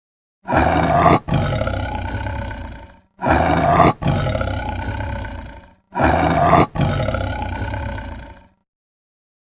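A large animal roaring, three identical roars in a row, each about two and a half seconds long with a brief break near its start.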